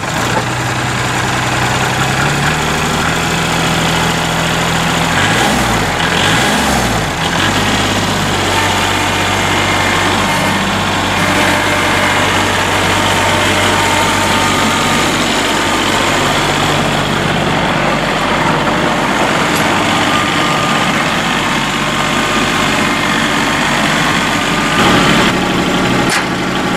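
Kubota L3301 tractor's three-cylinder diesel engine running steadily, its pitch wavering up and down a few times about five to seven seconds in before settling again.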